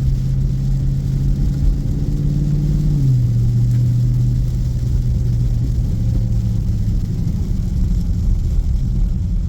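Dodge Scat Pack's 6.4-litre HEMI V8 droning at a steady cruise, heard inside the cabin over road and tyre rumble; the engine note steps down a little in pitch about three seconds in.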